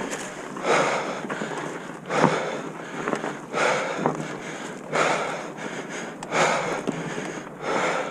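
A person breathing hard close to the microphone, one loud breath about every second and a half.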